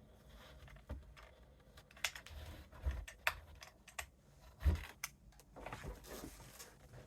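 Irregular taps, clicks and rustles of craft materials being handled and glued, with the loudest knock a little under five seconds in.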